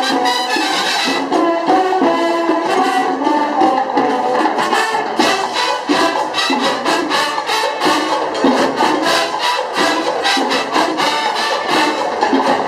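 Marching band playing: a brass melody of trumpets and trombones over a steady drum beat.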